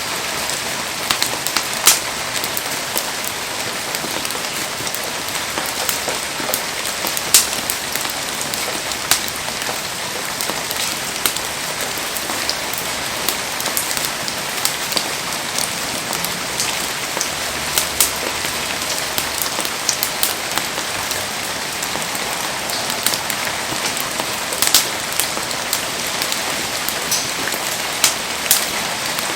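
Heavy rain falling steadily, with frequent sharp ticks and clicks scattered throughout.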